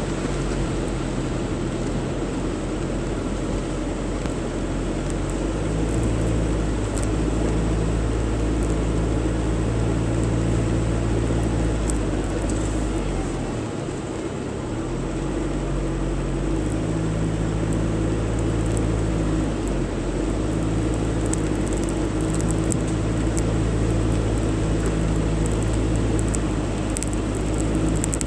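Car engine and road noise heard from inside the moving car: a steady low hum whose pitch steps a few times, with a brief dip about halfway through.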